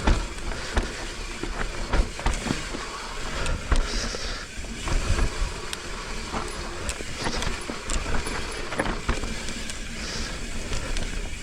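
Mountain bike riding down a dirt trail: tyres rolling over dirt and leaves, with frequent irregular knocks and rattles as the bike is jolted over the rough ground.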